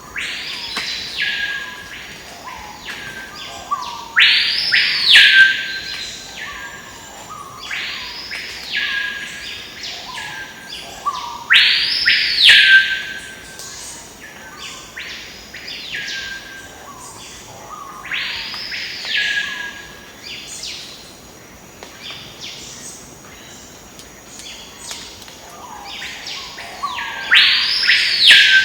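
A bird calling repeatedly. Each call is a long whistle of about a second that rises, holds high and drops back, coming every few seconds, with softer short lower notes in between.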